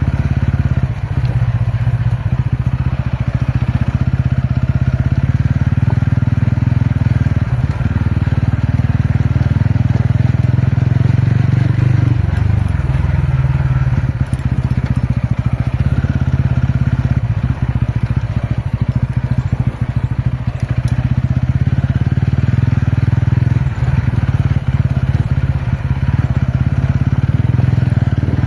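Ronin motorcycle's single-cylinder engine running steadily while being ridden off-road, with small rises and falls in engine speed.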